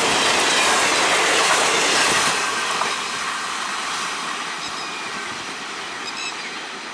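Indian Railways express passenger coaches rushing past close by, with loud wheel-on-rail rushing and clatter. About two seconds in it drops suddenly to a quieter, fading rail rumble.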